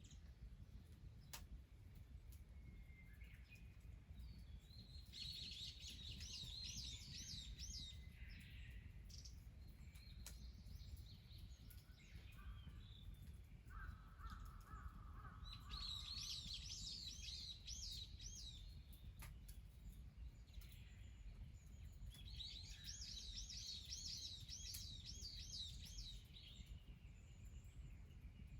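A small bird singing, faint: three phrases of quick, high, repeated notes several seconds apart, with a shorter, lower call between the first two. Under it runs a faint low rumble.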